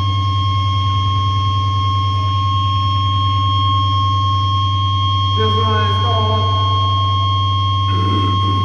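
Loud, steady drone of sustained electronic tones over a deep hum from the band's amplifiers or noise gear, without beat or rhythm. A voice briefly calls out about five and a half seconds in and again near the end.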